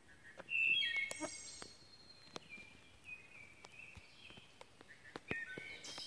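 Songbird singing: phrases of clear whistled notes, each held at a steady pitch and stepping between pitches. The loudest phrase comes about half a second in, with quieter phrases later. Scattered faint clicks and ticks run underneath.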